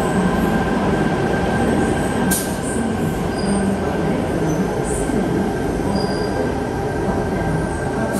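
Sydney Trains Tangara double-deck electric train running along an underground station platform: a steady, loud rumble of wheels and running gear with a thin steady whine over it. There is a sharp click about two seconds in.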